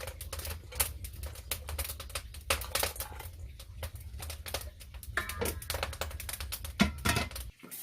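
Wood fire in a traditional agungi furnace crackling and popping in dense, irregular snaps, over a low rumble that stops suddenly near the end.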